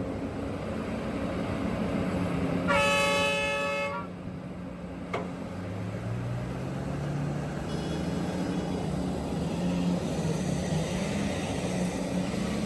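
Heavy mining machinery diesel engines running steadily, with one horn blast lasting about a second near three seconds in. Later, a sharp click and an engine note that rises.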